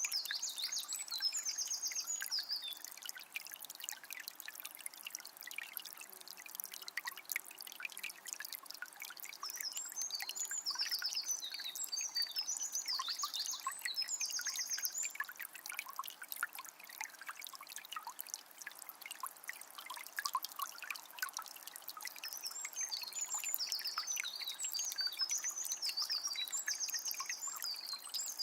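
Water of a small spring trickling and splashing steadily, with a songbird singing quick, high trilled phrases in three spells: at the opening, around the middle, and near the end.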